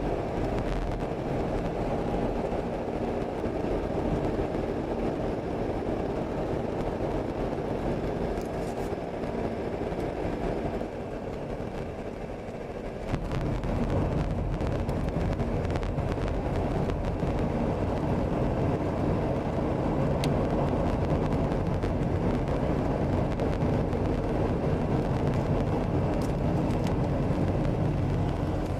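Steady road and engine noise inside a moving car; it drops for a couple of seconds about eleven seconds in, then comes back a little louder.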